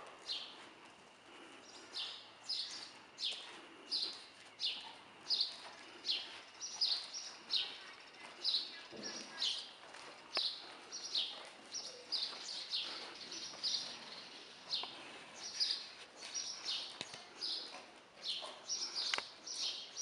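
A bird chirping over and over: a short, high, falling chirp about every two-thirds of a second, very regular.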